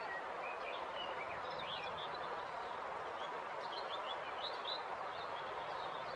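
A river flowing steadily, with small birds chirping now and then over the water.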